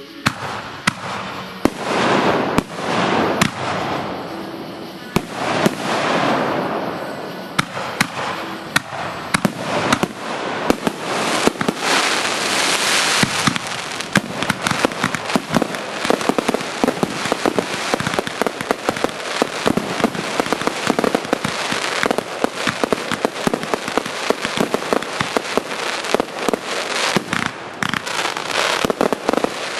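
Fireworks going off: repeated sharp bangs and cracks with hissing sprays, growing into a dense, rapid crackle of cracks from about ten seconds in.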